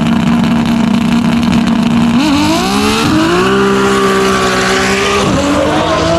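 Performance car engine revved and held at steady revs. The pitch climbs about two seconds in and holds higher for a few seconds, drops sharply near the end, then begins climbing again.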